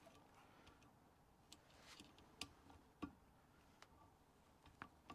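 Faint, scattered metal clicks and light taps as a valve spring compressor is worked into place over a valve spring on a cylinder head.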